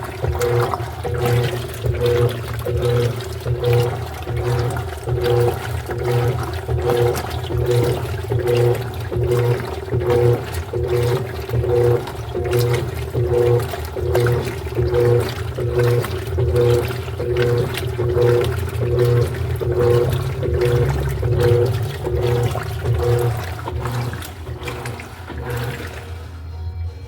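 Electrolux LED14 washing machine agitating a load in water: a rhythmic swishing of water, a little over one surge a second, over a steady low hum. It eases off near the end.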